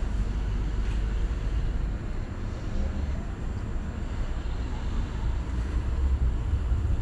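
Tram running along the track: a steady low rumble of wheels on the rails.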